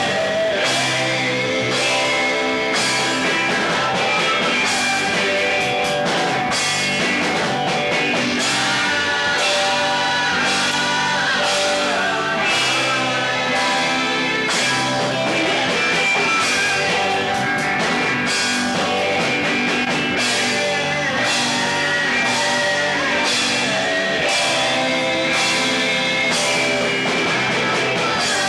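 Live rock band playing, with guitar and a drum kit keeping a steady beat.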